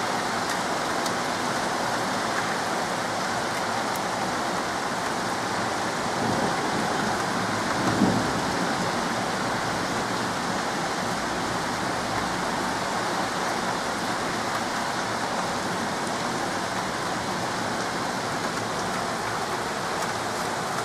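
Heavy rain pouring down, a steady dense hiss of downpour. A brief low thud about eight seconds in.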